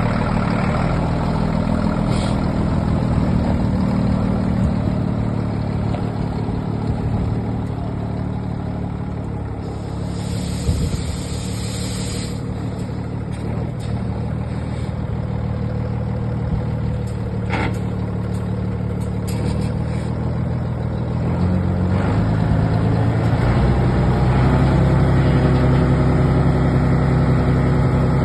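Scania P92 truck's diesel engine idling steadily, with a short hiss about ten seconds in; the engine grows louder over the last several seconds.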